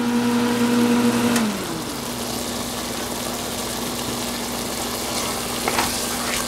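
Thick pea-and-mushroom curry sizzling in a pan, with a spatula scraping through it near the end. A steady hum, loudest at the start, drops in pitch and fades about a second and a half in.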